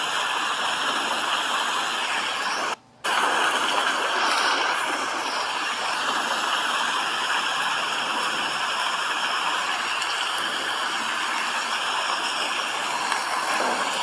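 Steady rain falling, an even hiss of water that cuts out for a moment about three seconds in.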